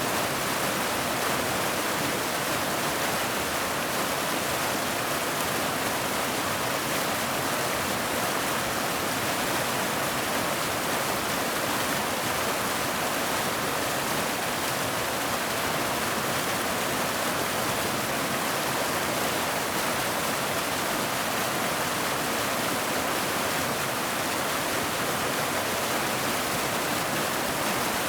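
Waterfall: a steady rush of falling water, an even hiss that stays at one level with no breaks.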